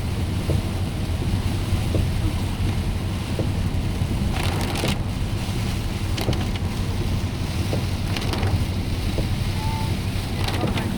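Car driving on a rain-wet highway: a steady low road and engine rumble with tyre and rain noise, and a few brief swishing noises over it.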